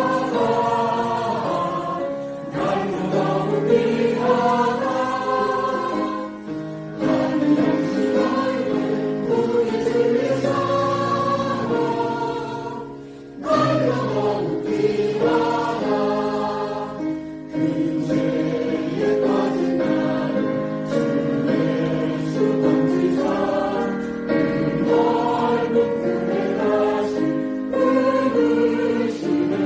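A church choir singing, many voices holding sustained notes in phrases, with a brief break between phrases about thirteen seconds in.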